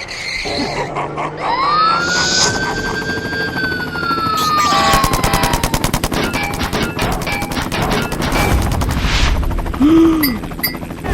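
Cartoon action sound effects: a whistling tone that rises, then slowly falls, followed by about three seconds of rapid machine-gun-like fire, with music underneath.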